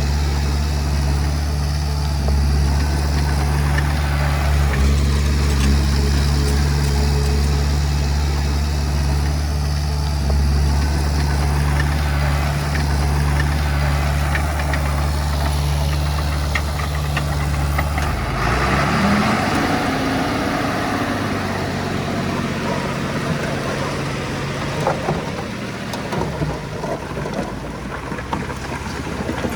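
Heavy-equipment diesel engine running steadily. About eighteen seconds in, the steady note gives way to a brief rise and fall in pitch and a rougher, noisier sound.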